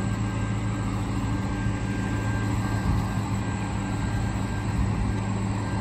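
Passenger train standing at the platform, running with a steady low hum and a thin, constant high whine.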